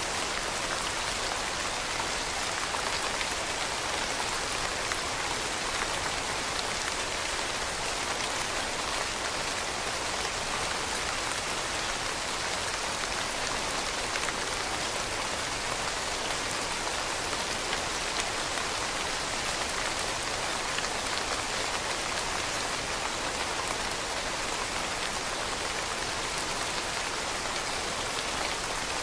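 Steady rain pattering on leaves, a dense even hiss of many small drops that doesn't change.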